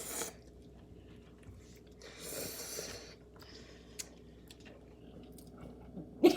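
A person chewing a mouthful of noodles, with a breathy rush of noise lasting about a second, about two seconds in, and a single click about four seconds in.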